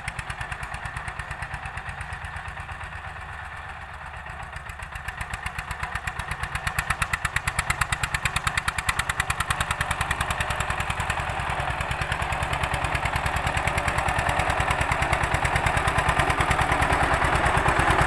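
Old-model Eicher tractor's diesel engine running with a steady, even beat of firing strokes. It dips slightly a few seconds in, then grows steadily louder toward the end.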